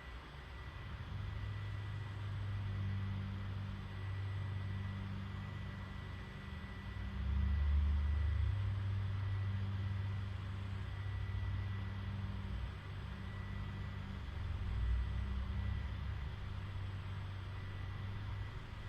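Low rumbling hum of a motor, swelling about seven seconds in and again near fifteen seconds.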